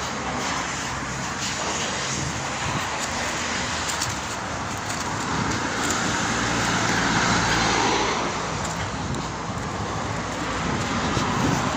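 Road traffic: cars passing on the road, one going by louder about seven to eight seconds in.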